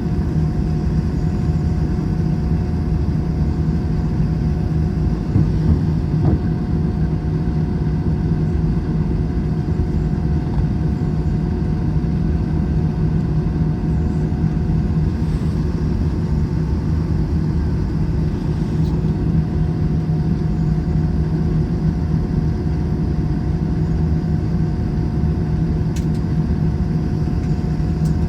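Airbus A321's jet engines and airflow heard from inside the passenger cabin: a steady, even drone and hum with no change in pitch.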